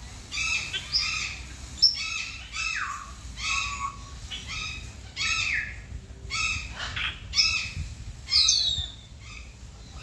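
Birds calling: a steady run of short repeated calls, roughly two a second, with a few downward-sliding notes mixed in.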